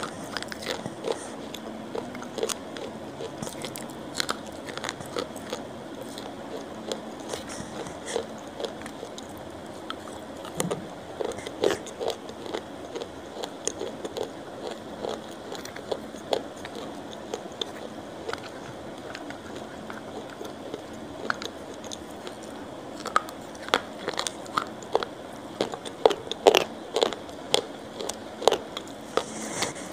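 Close-miked chewing: wet mouth clicks and smacks, irregular and soft, growing more frequent and louder over the last several seconds.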